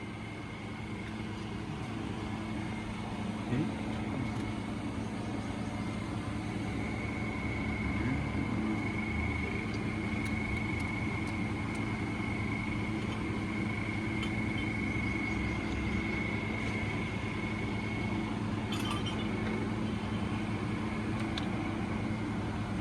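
Steady low mechanical hum, with a faint high-pitched whine joining it for about ten seconds in the middle.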